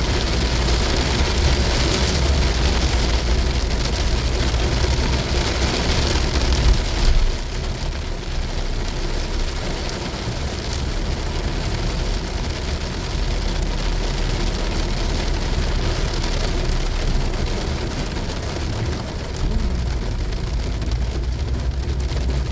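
Heavy rain beating on a moving car, over a steady rumble of road and engine noise. It drops a little about seven seconds in.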